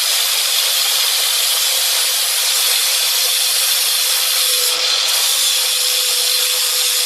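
Power grinder grinding a glaze run off the edge of a ceramic stove tile so the tiles butt together cleanly: a steady, loud hissing grind over a constant motor whine.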